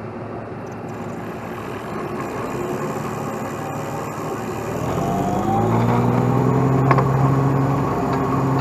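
Heavy truck's diesel engine running at a low rumble, then revving up about five seconds in, rising in pitch and holding at higher revs.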